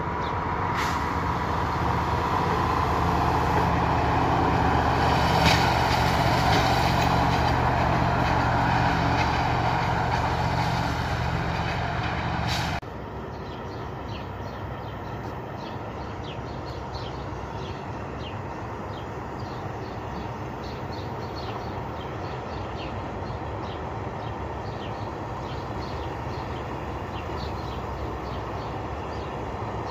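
A red locomotive running past with a steady mechanical hum that swells to its loudest about 6 s in and cuts off abruptly about 13 s in. After that, a quieter, distant freight train headed by locomotives 642 401 and 461 119 rumbles along with faint ticking.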